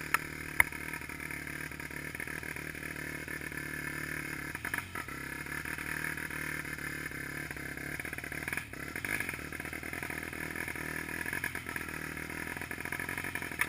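Trail motorcycle engine running steadily at low revs, with two sharp clicks in the first second.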